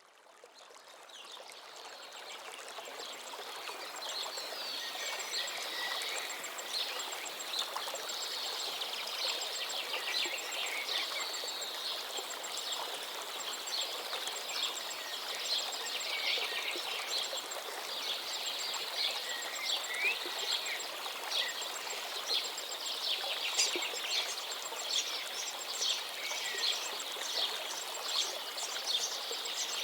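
Running stream water with many songbirds chirping and trilling over it, fading in from silence over the first few seconds.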